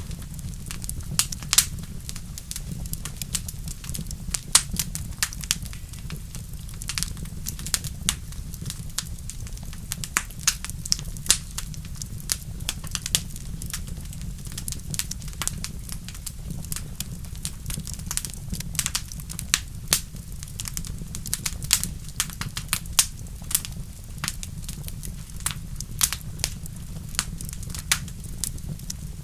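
Wood fire burning in a fireplace, crackling and popping with irregular sharp snaps over a steady low rumble.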